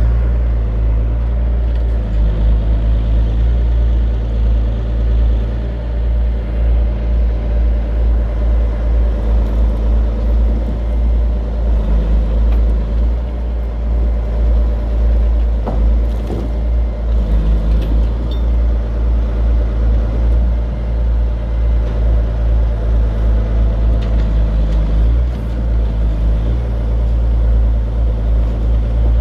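Diesel engine of a self-loading log truck running steadily with small swells in pitch and loudness while its hydraulic log loader unloads. A single sharp knock sounds about halfway through.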